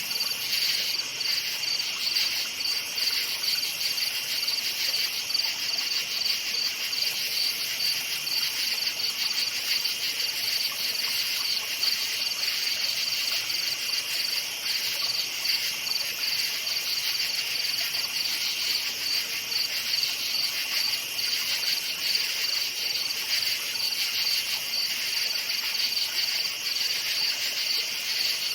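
Crickets chirping in a steady, high-pitched chorus of fast, even pulses that never lets up.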